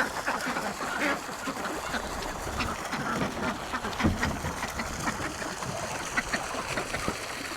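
Ducks quacking, many short scattered calls from several birds.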